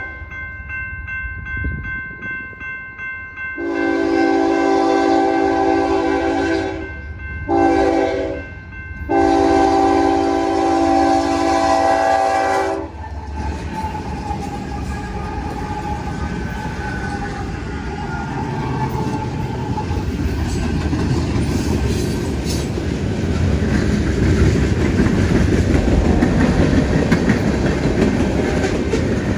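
A level-crossing bell rings, then a diesel locomotive's multi-chime air horn sounds a long, a short and a long blast as it nears the crossing. The train then passes, its wheels clacking over the rail joints and the rumble growing louder toward the end.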